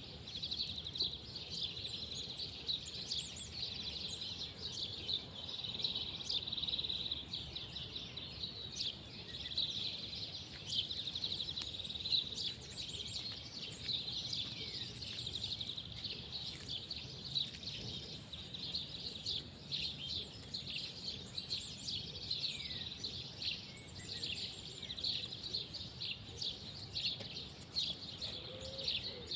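Outdoor countryside ambience: birds chirping and calling over a steady, high-pitched trill of fine rapid pulses, with a faint low rumble beneath.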